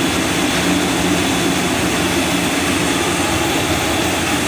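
A steady, loud mechanical drone with a low hum, unchanging throughout.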